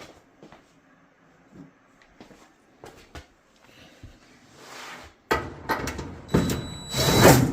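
Sheet-metal parts of a dryer being handled: a few faint clicks and taps, then about two seconds of loud rattling and scraping of metal near the end.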